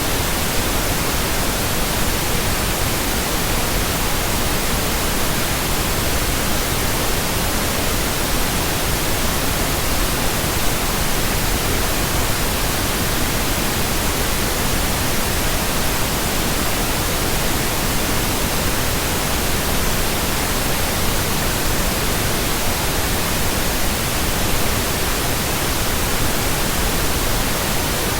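Steady synthetic pink noise: an even, unchanging hiss spread across the whole range, with no tones or events.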